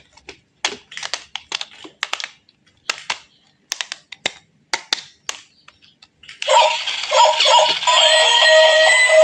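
A run of short, irregular clicks and rattles, then music with electronic, voice-like tones starts about six seconds in and carries on.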